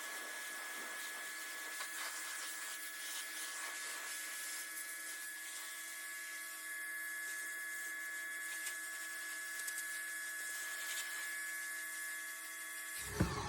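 Pressure washer running: a steady high-pitched motor whine over the hiss of the spray. Near the end a few irregular low thumps come in.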